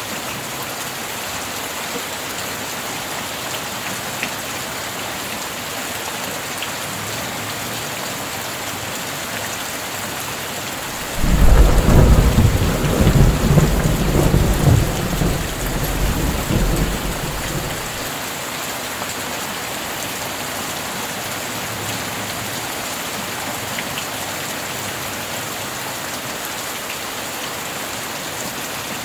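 Steady rain falling, with a sudden clap of thunder about eleven seconds in that rumbles on for several seconds and dies away.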